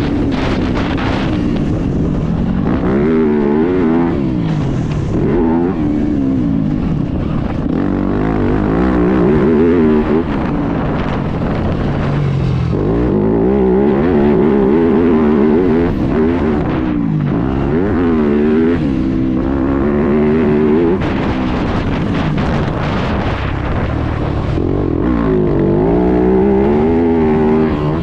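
Motocross bike engine revving hard and easing off over and over, its pitch climbing and dropping with the throttle and gear changes.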